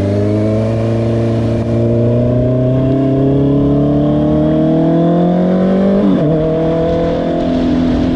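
Honda CBR650R's inline-four engine pulling steadily through a gear, its pitch rising slowly for about six seconds, then an upshift with a brief break and a drop to lower revs held steady.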